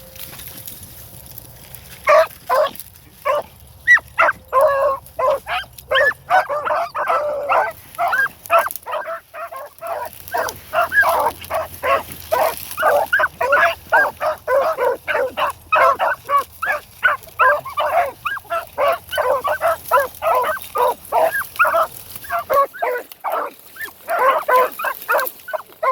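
Pack of beagle hounds baying on a trail, a fast, continuous chop of repeated calls from more than one dog, starting about two seconds in.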